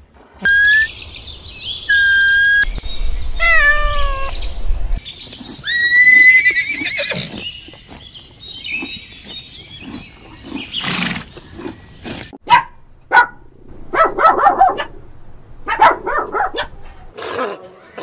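A succession of different animal calls: long high calls near the start, a falling, wavering call about four seconds in, then a run of short sharp calls in the second half.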